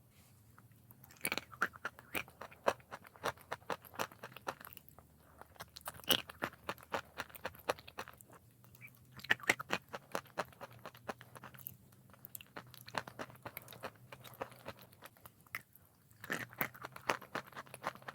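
A person biting and chewing hard chalk, with dense crunching and crackling in bouts of a few seconds separated by short pauses.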